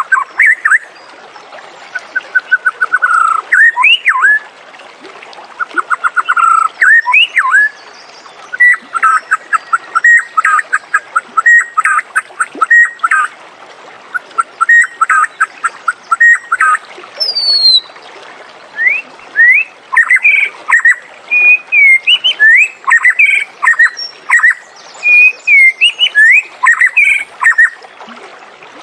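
White-rumped shama (murai batu) singing a varied song of clear whistles, rising and falling slurs and fast runs of repeated notes, in phrases broken by short gaps.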